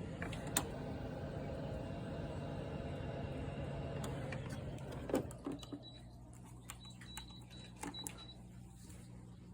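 LG 8,000 BTU window air conditioner running with a steady low hum and airy noise, its coil iced over; the owner suspects a refrigerant problem. The noise drops away about halfway through, with a few knocks and clicks.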